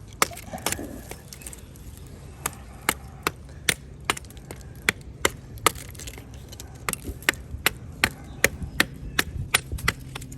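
Repeated sharp chops into resin-soaked pine wood (fatwood), irregular, about one or two a second at first and coming faster in the second half.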